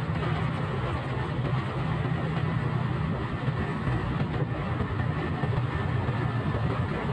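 Motorcycle engine running at a steady speed, its low engine note held fairly even under a constant hiss.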